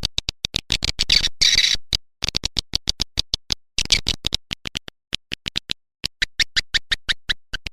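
Swiftlet lure call: rapid trains of sharp clicking chirps, about eight to ten a second, broken by brief silences near two seconds in and again around five seconds in.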